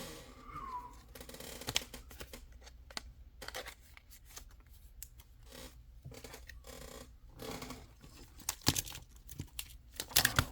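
Pokémon trading cards and booster-pack wrapper being handled: soft rustling and paper noise with irregular sharp card snaps, the loudest near the end.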